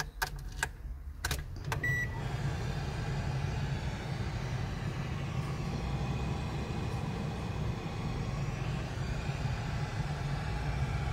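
A few sharp clicks and a short beep, then the Renault Twingo's engine running at a steady idle with a low, even hum.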